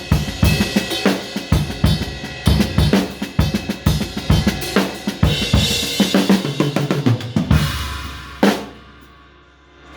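A drum kit played in a busy beat of kick, snare and cymbals, ending on one last loud hit about eight and a half seconds in that rings out and fades away.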